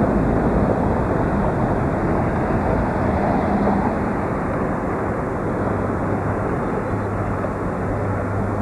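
Pickup truck driving: steady engine and road noise inside the cab, with a low engine hum that grows stronger in the second half.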